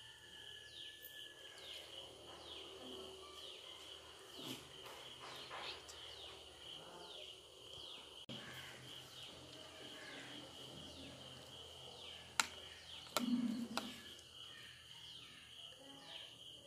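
Faint background of birds chirping in short falling calls over a steady high-pitched hum, with a few sharp clicks about three-quarters of the way through.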